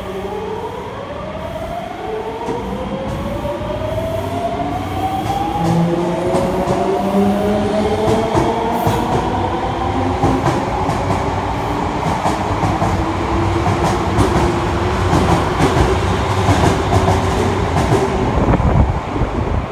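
Osaka Metro 66 series subway train accelerating away from the platform. The traction motors' inverter whine rises in pitch in several tones and then levels off, over a growing rumble and clatter of wheels on rail that gets louder as the cars pass.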